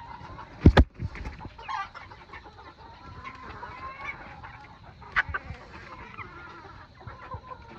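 Old English game bantam chickens clucking and calling softly, with two loud thumps close together a little under a second in and a sharp knock about five seconds in.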